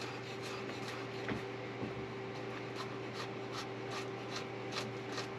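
Kitchen knife chopping garlic on a cutting board, light regular cuts about three a second. A steady low hum runs underneath.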